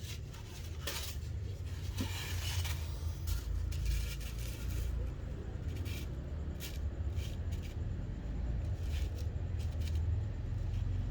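Scattered crinkling and light clicks, as of something being handled, over a steady low rumble; the crinkles come thickest in the first few seconds.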